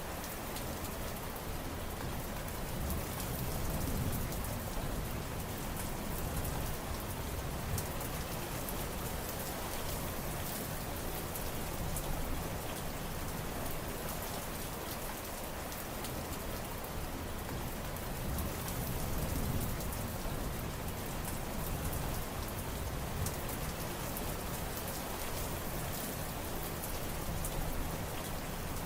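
Steady rain falling and pattering on surfaces, with a low rumble that swells and fades every several seconds.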